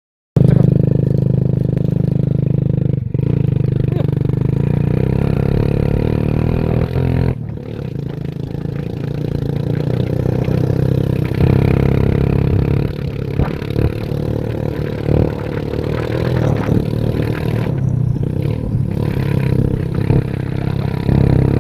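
Excavator's diesel engine running steadily at work, with two brief dips about 3 and 7 seconds in.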